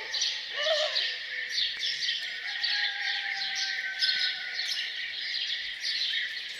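Many small birds chirping and singing at once in a continuous morning chorus, with a lower, arching call about a second in.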